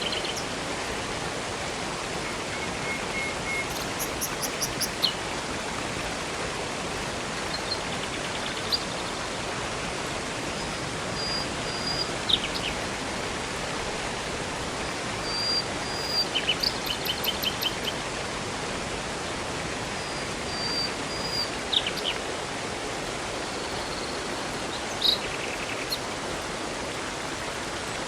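Steady rush of a river and waterfall, with songbirds calling over it: short trills, rapid runs of repeated chirps and quick falling whistles every few seconds.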